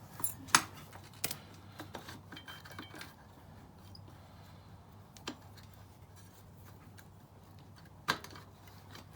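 Scattered sharp metallic clicks and clinks from a Honda XR650L's rear wheel assembly as the rear axle is wiggled and eased back. The loudest comes about half a second in and another about eight seconds in, with quiet stretches between.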